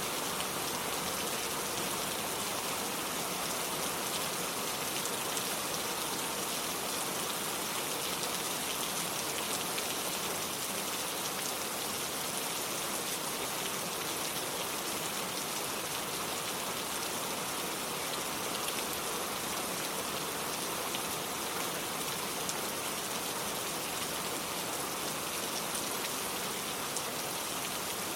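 Steady rain falling: an even hiss of rain with faint ticks of individual drops, unchanging throughout.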